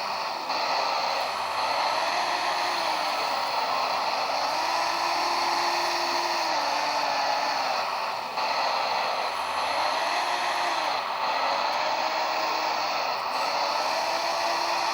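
Simulated excavator engine sound from the RC model's soundboard and small speakers, its pitch rising and falling every couple of seconds as the controls are worked. Under it runs the steady whir of the model's electric hydraulic pump.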